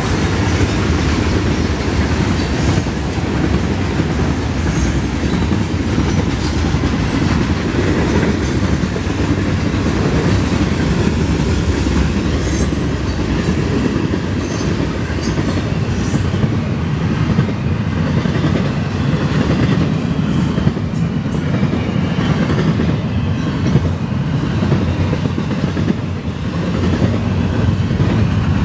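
Florida East Coast Railway freight train's hopper cars and gondolas rolling past: a steady heavy rumble with the clickety-clack of wheels over the rail joints.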